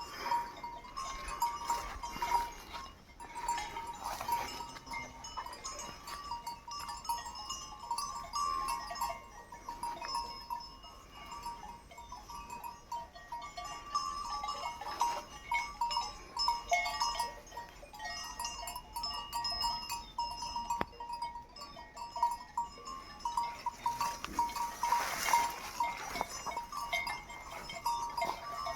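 A flock of sheep with many small neck bells clinking and tinkling on and off throughout, and now and then a sheep bleating, most loudly near the end.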